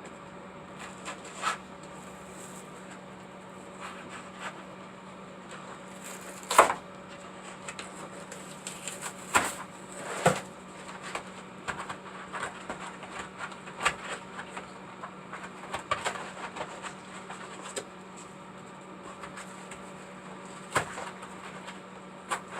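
Scattered sharp clicks and light knocks at irregular intervals, the loudest about six and a half and ten seconds in, over a steady low hum.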